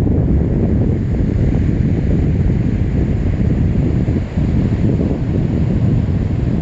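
Wind buffeting the phone's microphone: a loud, steady low rumble, with the sea's surf faintly beneath it.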